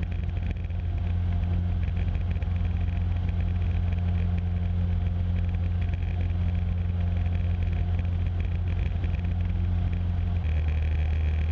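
Cessna 150's Continental O-200 four-cylinder engine and propeller droning steadily in flight, heard through the cockpit intercom audio. About ten seconds in, the note drops slightly as power is eased back.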